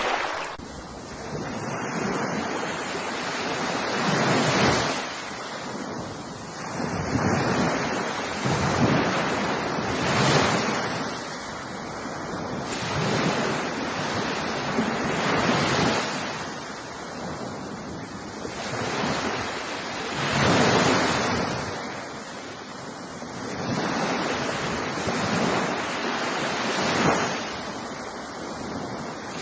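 Ocean waves breaking on a shore: a continuous hissing wash of surf that swells and ebbs about every three to four seconds.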